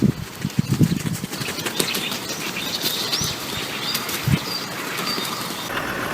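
Bird wings flapping in quick repeated beats, with a few faint high chirps around the middle.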